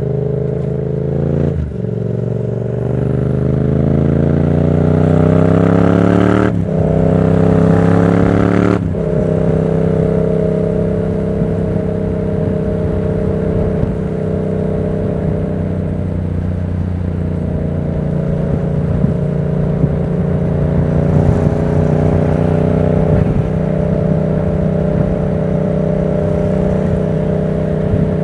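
Yamaha MT-07's 689 cc parallel-twin engine through an aftermarket Black Widow exhaust, pulling up through the gears. The revs climb and drop back three times in the first nine seconds on the upshifts, then it runs at steady revs while cruising.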